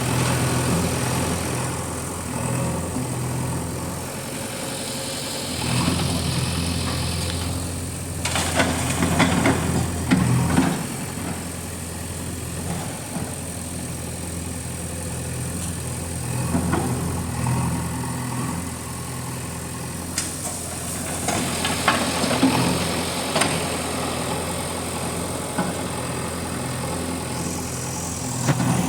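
JCB 3DX backhoe loader's diesel engine running steadily while loading mud. Twice it gets louder with clanking and rattling.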